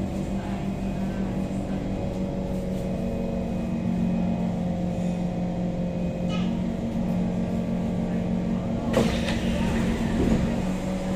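Steady low hum of a Kawasaki C151 train standing at a platform, its onboard equipment and air-conditioning running, with one sharp knock about nine seconds in.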